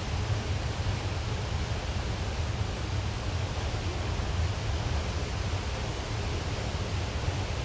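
Steady rushing of the fast-flowing Trümmelbach glacial stream, an even roar of water with a strong deep rumble.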